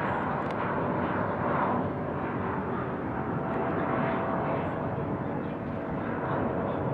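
Jet airliner engines running on a departure, a steady rush of noise with a faint whine in the middle of it.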